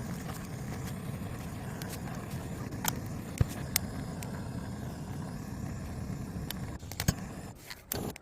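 Wood burning in a campfire: a steady low rumble of the fire with scattered sharp crackles and pops from the logs, the loudest about three and a half and seven seconds in.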